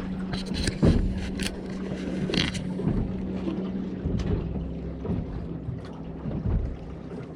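Wind and water noise around a small fishing boat, with a few sharp knocks and clicks in the first three seconds. A steady low hum runs under it and stops about four seconds in.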